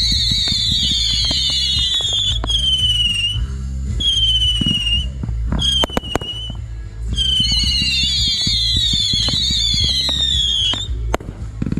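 Whistling fireworks: several shrill whistles at once, each slowly falling in pitch, in a long volley, then two or three short single whistles, then another long volley that cuts off near the end. Sharp pops and crackles sound among them.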